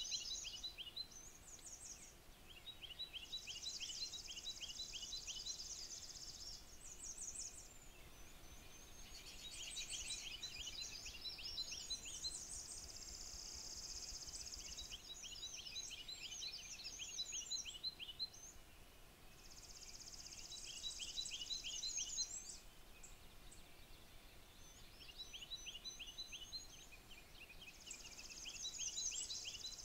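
Several songbirds singing at once: repeated runs of quick high chirps overlapped by higher, buzzy trills about two seconds long, each phrase recurring every few seconds.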